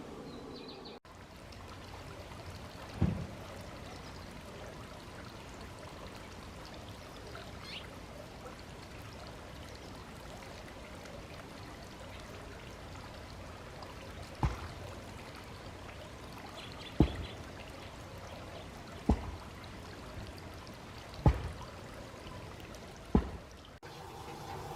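Small water fountain running steadily with a pouring trickle. It is broken by six sharp thumps, one early and five in the second half, all louder than the water.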